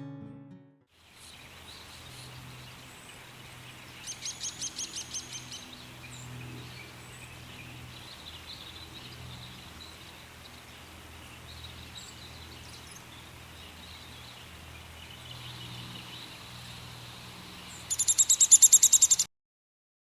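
Songbird trills: a rapid run of high, evenly repeated notes about four seconds in, and a louder, longer run near the end that cuts off abruptly, over a faint steady low hum.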